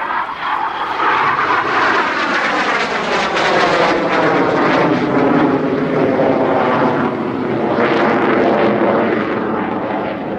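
BAe Hawk Mk 51 jet trainer flying past, its single Rolls-Royce Turbomeca Adour turbofan giving a loud, steady jet roar with a sweeping, phasing whoosh as it passes.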